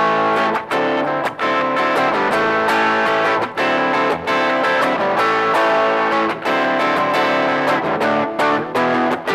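Guitar music: plucked and strummed guitar with evenly spaced attacks that keep a steady beat.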